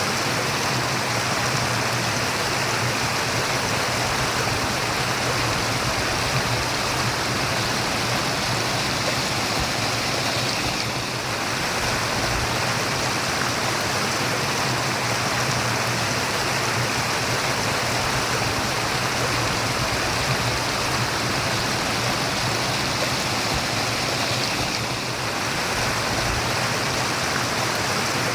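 Steady rushing and murmuring of flowing water, like a stream or small waterfall, with a slight dip in level about eleven seconds in and again near the end.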